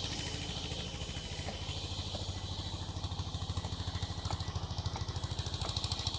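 Sawmill engine running steadily with an even, rapid pulse, with a few light knocks over it.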